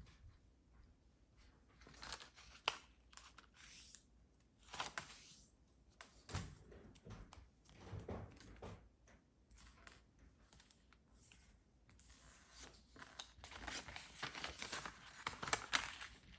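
A sheet of origami colour paper being folded into triangles and creased by hand: irregular rustling and crinkling with a few sharp scrapes as the folds are pressed flat, busier near the end.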